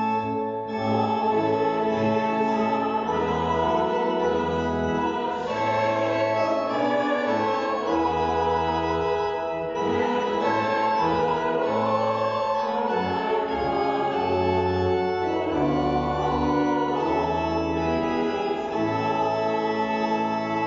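Church organ playing slow, held chords over a bass line that moves every second or two.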